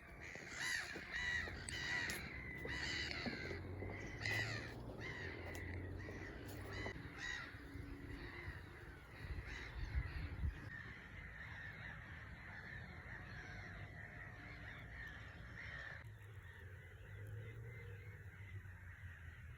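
Birds giving a series of harsh, caw-like calls, loudest and most frequent in the first five seconds or so, then fainter calls continuing.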